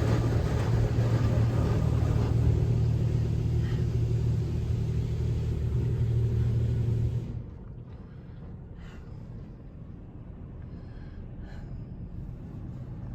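Automatic car wash machinery running loudly with a steady low hum, heard from inside the car, then cutting off about seven seconds in and leaving a quieter rumble with a few faint knocks.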